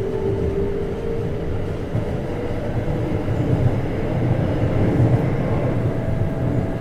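Keikyu 1500 series electric train running, heard from inside the lead car: a steady rumble of wheels on track. A faint motor whine rises slightly in the first second or so and then fades, and a higher faint tone appears near the end.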